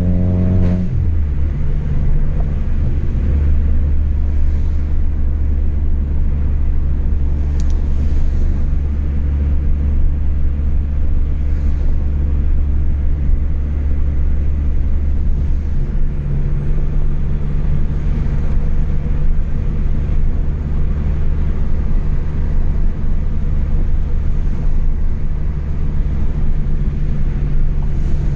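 Chevrolet Astra 2.0 four-cylinder engine running through a straight-through exhaust with no muffler. In the first second the revs drop sharply, then it settles into a steady low drone. About halfway through, the note steps up to a higher pitch and holds there.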